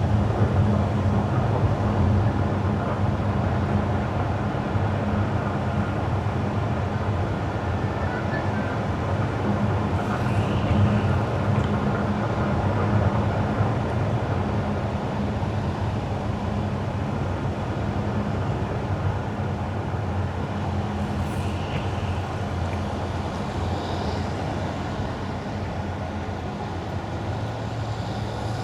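Car driving on wet winter asphalt: steady tyre hiss over a low, even road and engine drone, with a few faint brief higher sounds about ten and twenty seconds in.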